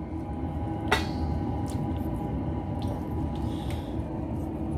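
A pan of chicken in soy sauce and vinegar bubbling and sizzling on the stove, a steady wet crackle, with a single sharp clink about a second in.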